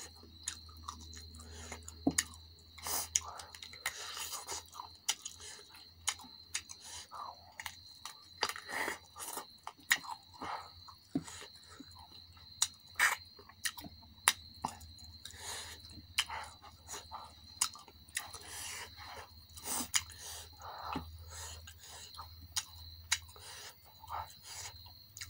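Close-miked eating of spicy chicken with the fingers: wet chewing and lip-smacking, with many sharp irregular clicks and smacks.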